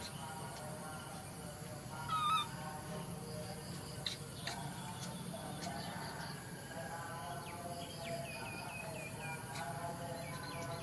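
Birds chirping and calling in the background, with a quick run of short chirps near the end. A brief, louder squeal comes about two seconds in.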